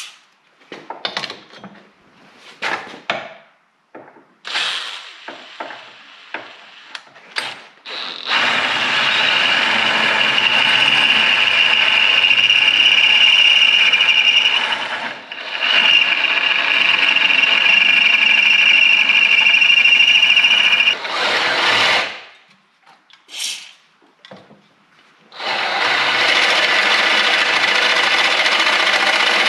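Electric drill boring a pilot hole: a few seconds of handling clicks and knocks, then the drill runs steadily with a high whine for long stretches. It pauses briefly about halfway, gives a couple of short spurts, then runs steadily again near the end.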